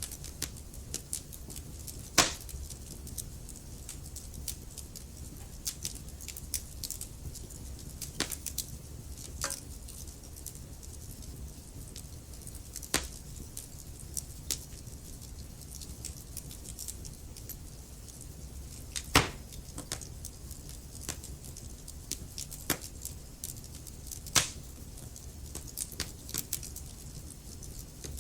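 Wood fire crackling: irregular small snaps and pops over a low steady rumble, with three louder pops, one about two seconds in and two more in the last third.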